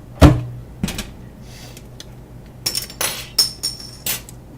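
Kitchen handling noises: a loud knock, then a quicker run of five or six sharp clinks and clatters with a bright ring, as of dishes and utensils being handled.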